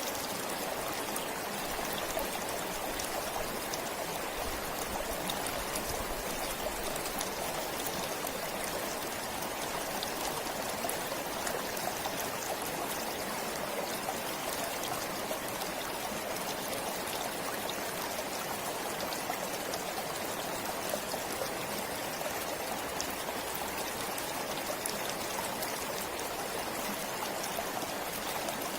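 A forest stream flowing and trickling steadily, an even rush of water with small splashes.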